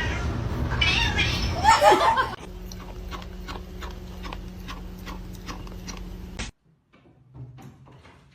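A cat yowling, one drawn-out wavering call about a second or two in, over a loud noisy background. After it, a quieter steady low hum with soft regular ticks.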